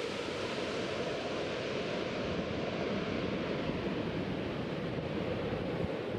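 Jet airliner engines running, a steady rushing roar with no distinct tones.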